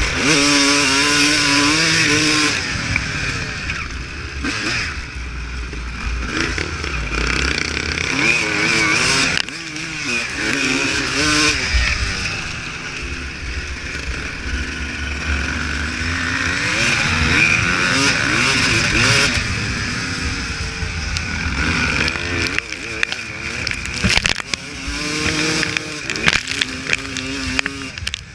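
Honda CR250 two-stroke motocross bike riding off-road, its engine revving up and down again and again as the throttle is worked.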